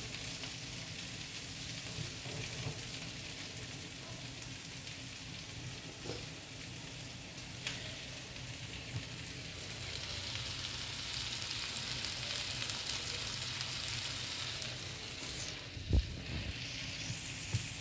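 Meat, zucchini and onion sizzling steadily in a nonstick frying pan, with a few light clicks along the way. A dull thump near the end.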